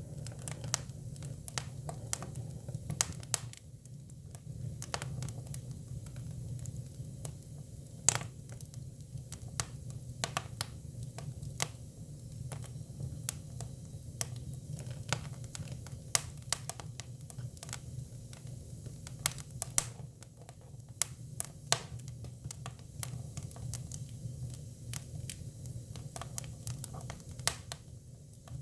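Hinoki cypress firewood burning: irregular sharp crackles and pops, several a second at times, over a steady low rumble of the fire.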